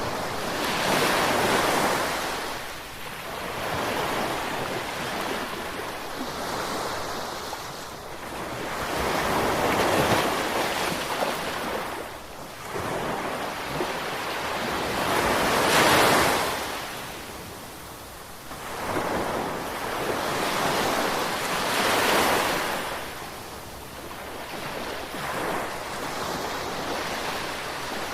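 Gentle ocean waves washing in, the surf swelling and fading every few seconds.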